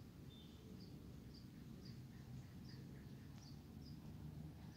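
Faint outdoor background: a small bird chirping over and over, short high chirps every half second or so, over a low steady rumble.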